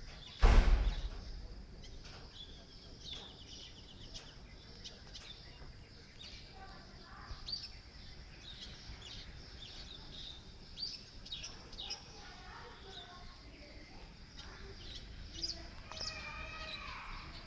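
Birds chirping and calling, short scattered chirps over a steady high-pitched hum, with one loud thump about half a second in.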